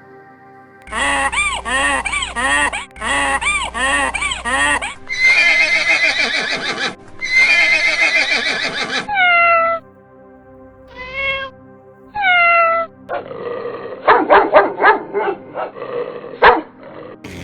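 A run of separate animal calls, each cut off abruptly: several loud calls with repeated rising and falling pitch glides, then shorter calls that fall in pitch, then a spell of sharp noisy grunts or clicks near the end.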